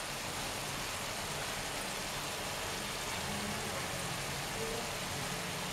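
Prawn and tomato curry sizzling in a pan on the stove: a steady, even hiss with no breaks.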